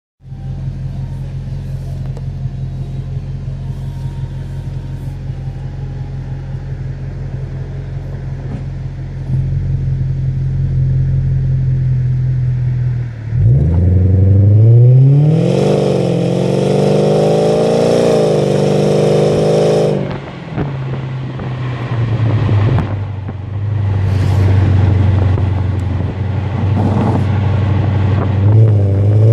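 Audi A8 4.2 V8 with its muffler deleted. It idles steadily for about thirteen seconds, then is revved up and held high with the pitch climbing for several seconds before dropping back to idle. A few shorter blips follow, and it revs up again at the end.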